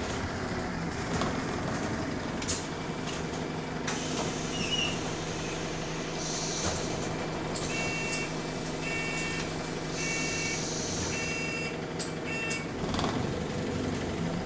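Alexander Dennis Enviro400 MMC double-decker bus standing at a stop with a steady engine hum. Air hisses in two bursts about halfway, and a run of about five short warning beeps, roughly one a second, sounds as the doors close. The engine note changes near the end as the bus pulls away.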